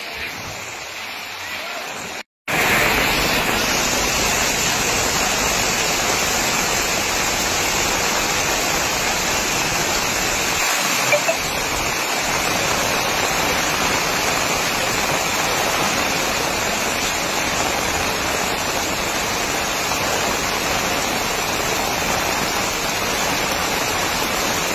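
Heavy rain pouring down on a waterlogged street as a steady, dense hiss. About two seconds in the sound cuts out for a moment and comes back louder.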